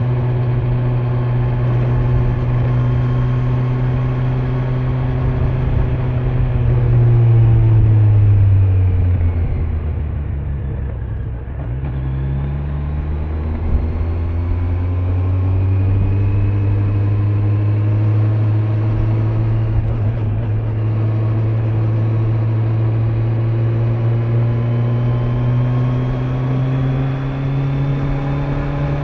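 Kawasaki Z900 inline-four engine with stock exhaust, heard from the rider's backpack over wind and road noise. It runs steadily, then slows with the engine note falling, shifts gear about twelve seconds in, and pulls away again with the pitch rising slowly.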